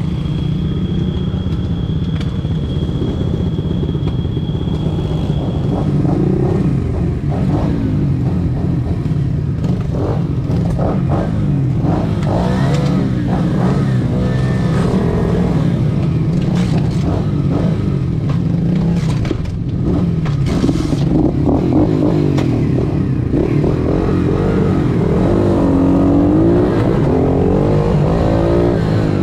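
Pit bike engines running and revving, their pitch rising and falling. Near the end the revs climb in a long rising sweep as the bikes pull away at the start.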